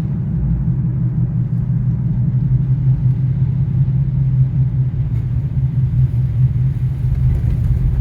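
A car driving, its engine and tyre noise a steady low rumble with no change in pace.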